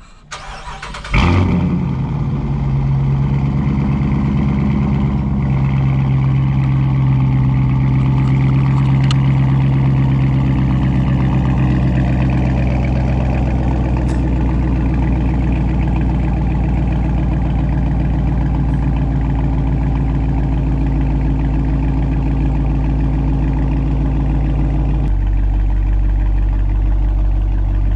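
2019 Dodge Charger R/T's 5.7-litre Hemi V8 with its mid-mufflers deleted, warm-started about a second in: it fires with a rev flare, then settles over the next few seconds into a loud, steady idle. The idle's tone changes abruptly about 25 seconds in.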